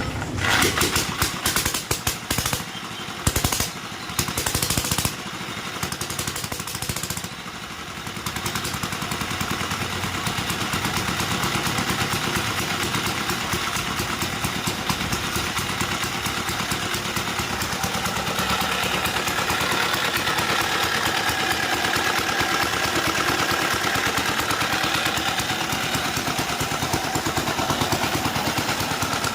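Sooraj diesel motorcycle's single-cylinder diesel engine running after being started in its unrestored, long-abandoned state: uneven with loud surges for the first several seconds, then settling into a steady idle.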